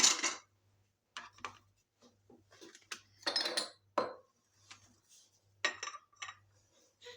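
Dishes and cutlery clinking and knocking together in a string of separate clinks, with a longer clatter about three seconds in.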